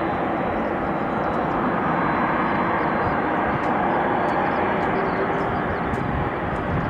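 Boeing 737 MAX 8's two CFM LEAP-1B turbofan engines at high takeoff thrust: a loud, steady jet rush that holds level throughout.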